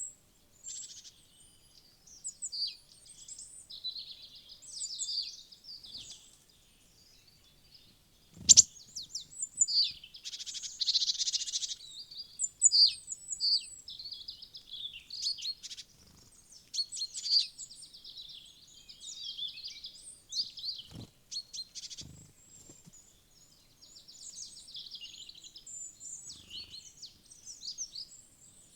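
Small songbirds chirping and calling almost without pause, many short high notes overlapping. A few sharp knocks stand out, the loudest about a third of the way in and two more near two-thirds.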